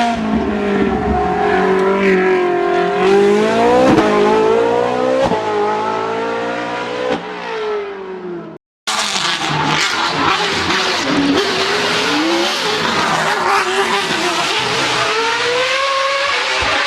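Race car engines at high revs, the pitch climbing under acceleration and dropping back at each gear change. The sound breaks off for a moment about halfway through, then another race car is heard revving and shifting up through the gears.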